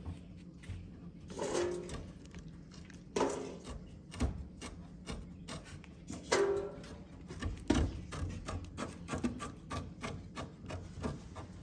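Hand tools working a fuel-hose fitting: scattered clicks, knocks and rubbing as wrenches turn the fitting and the hose is pulled off, with a few brief squeaky sounds.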